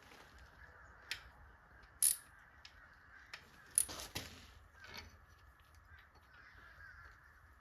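Several sharp clicks and knocks over a faint steady background, the loudest about two and four seconds in.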